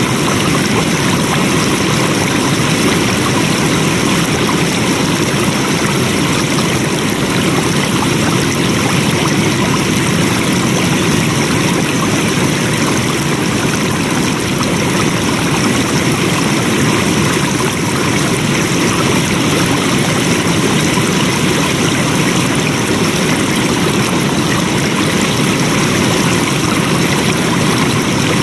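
Flowing water running steadily, an even, unbroken wash of sound with no changes.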